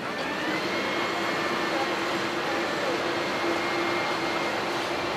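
Airbus A330-300 twin jet engines running at takeoff power: a steady rush of noise with a held low hum and a high whine, a little louder after the start.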